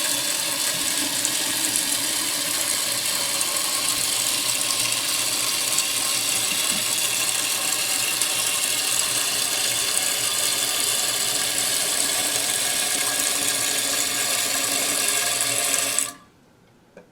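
Fluidmaster toilet fill valve with a newly replaced seal refilling the tank at full flow: a steady hiss of water running through the valve that shuts off abruptly near the end.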